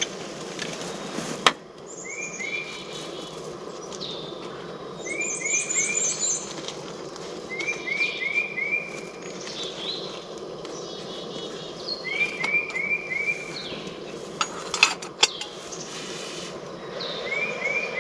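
Birds singing in spring woodland: one repeats a phrase of three or four short rising notes every few seconds, with other chirps and a brief high trill among them. A few sharp clicks sound about a second and a half in and again around fifteen seconds, over a steady background hiss.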